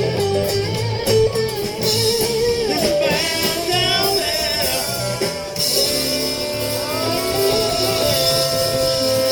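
Live electric blues band playing between vocal lines, a guitar bending and shaking notes over the band's steady bass.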